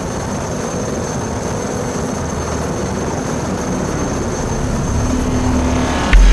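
Helicopter running with its turbine engine and rotor, a steady loud noise with a thin high whine over it. A loud low thump comes in near the end.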